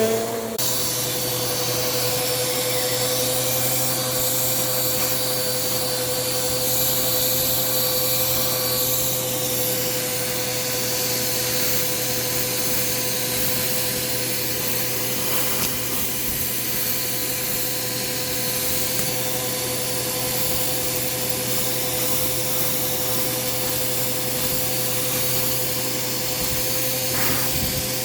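Bissell PowerForce Compact upright vacuum running steadily, a constant motor whine over airflow hiss. Its pitch shifts slightly just after the start, and there are a couple of faint ticks later on.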